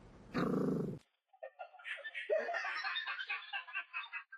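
A short noisy burst, then, after a cut, a person laughing in quick, high-pitched giggles.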